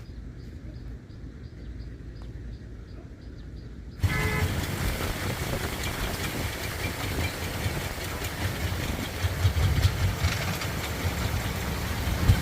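A quiet low hum, then about four seconds in a vehicle engine starts to be heard loudly and suddenly, with a heavy low rumble and dense noise over it, as if riding on or beside a truck.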